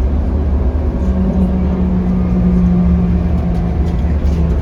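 Scania K310UB city bus heard from inside while it is under way: a steady low engine and drivetrain rumble, with a steady hum that comes in about a second in.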